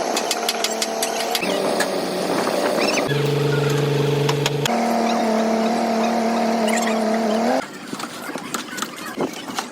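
Motor-vehicle engine sounds in short edited clips that switch abruptly every second or two, each a steady hum, with light clicks throughout.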